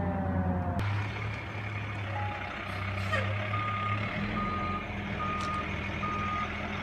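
Fire truck siren falling in pitch and cutting off under a second in, leaving the truck's engine running. About halfway through, its reversing alarm starts beeping steadily, roughly one beep every 0.8 s, as the truck backs up.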